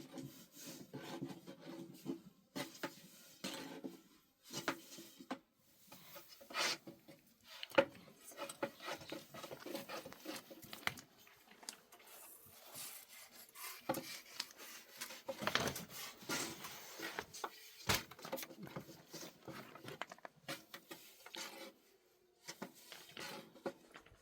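Objects being handled by hand: irregular knocks, clatter and scraping, with a few sharper knocks, one about eight seconds in and one near eighteen seconds.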